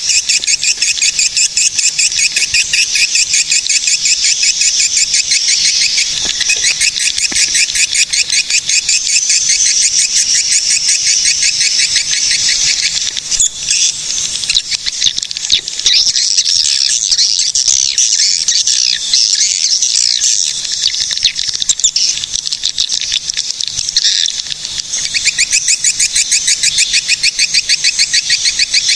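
Swiftlets calling: a dense, high-pitched chattering trill of very fast repeated chirps. It thins out twice for a few seconds around the middle before going dense again.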